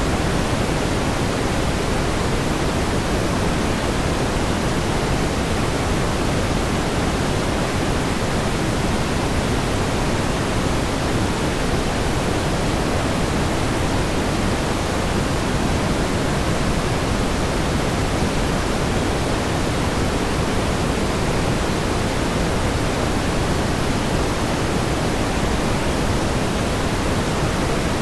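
Steady pink noise: an even, unchanging hiss, heavier in the low end than white noise.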